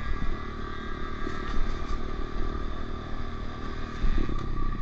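Dirt bike engines running steadily while riding on a trail, with a steady engine tone over a low rumble.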